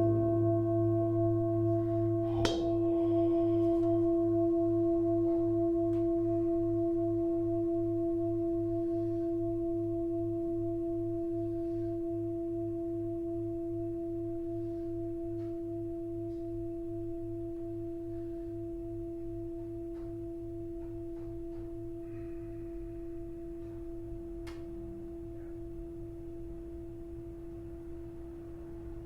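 Tibetan singing bowl ringing on: one steady tone with a pulsing low wobble, slowly fading. A light tap is heard about two and a half seconds in.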